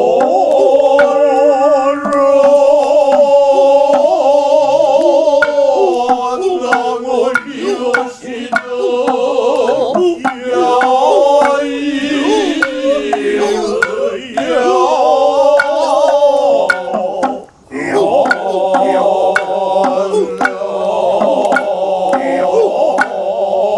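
Noh chanting (utai): drawn-out sung lines with a heavy waver, accompanied by sharp strikes of the Noh hand drums (tsuzumi), which come thicker near the end.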